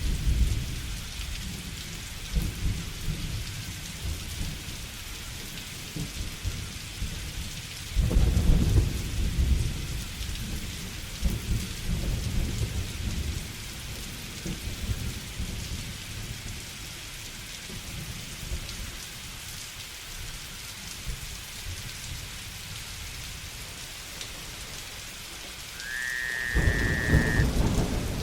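Steady rain falling with rolling thunder, one rumble about eight seconds in and another near the end. A short, high, whistling call sounds just as the last rumble starts.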